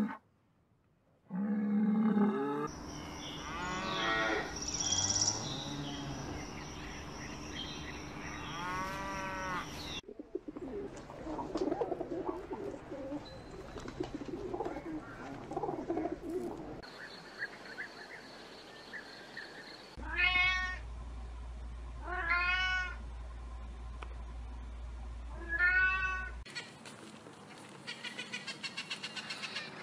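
A run of different animal calls: a Highland cow's low moo at the start, then a stretch of high calls that rise and fall, pigeons cooing, three loud rising-and-falling calls about two and a half seconds apart, and a parrot's fast ticking chatter near the end.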